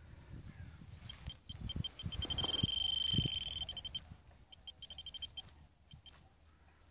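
Metal detecting pinpointer beeping at one high pitch. The beeps speed up and merge into a continuous tone for about a second as it closes in on a metal target in the dug hole, then pulse quickly again. Soil and digging scrapes and knocks can be heard underneath in the first half.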